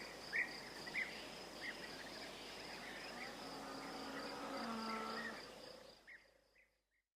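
Quail chirping in short calls, about two a second and then fewer, over a steady high insect trill. A low drawn-out tone joins in the middle, then the whole sound fades out about six seconds in.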